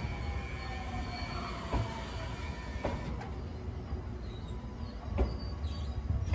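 Electric multiple-unit passenger train rolling slowly alongside a station platform: a low rumble with a faint whine, and a few sharp clicks from the wheels.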